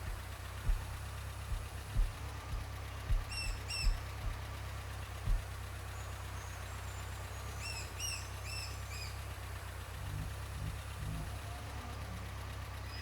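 Birds chirping in short hooked calls, a pair about three seconds in and a run of four or five around eight seconds, over a vehicle engine idling with a steady low hum. A few dull thumps come in the first five seconds.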